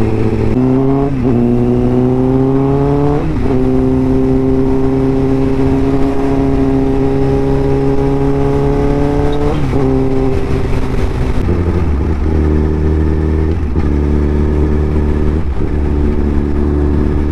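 Honda CBR1000RR Fireblade's inline-four engine through an SC Project aftermarket exhaust, accelerating through the gears. The note rises and drops at each of three upshifts, then holds a steadier, lower note while cruising.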